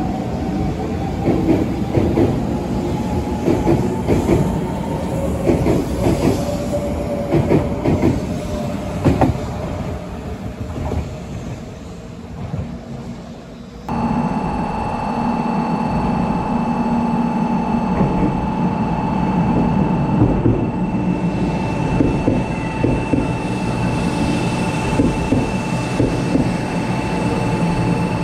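JR West 500 series Shinkansen trains at a station platform. The first pulls away with wheels clicking over rail joints and a motor whine that rises in pitch, fading as it goes. After a sudden change, a second 500 series runs in along the platform with a steady high hum and wheel clicks, growing louder.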